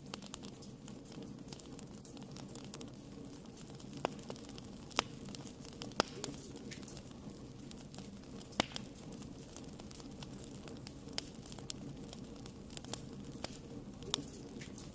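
Wood fire burning in a fireplace: a steady low rumble of flames with scattered sharp crackles and pops from the burning logs, the loudest about four, five, six and eight and a half seconds in.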